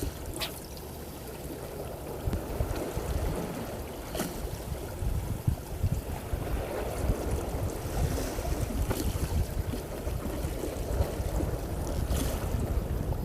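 Wind buffeting the microphone over water washing against a fishing boat, a steady gusty low rumble with a few faint ticks.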